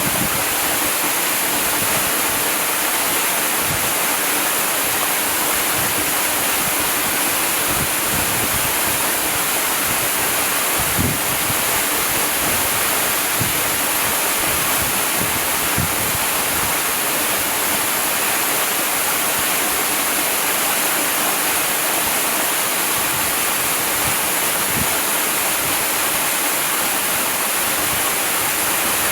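Waterfall: a steady, unbroken rush of falling water, with a few faint low thumps in it.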